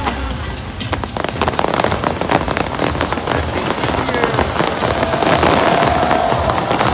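Fireworks display crackling, with a dense rapid stream of small pops and bangs that thickens about a second in and gets a little louder toward the end.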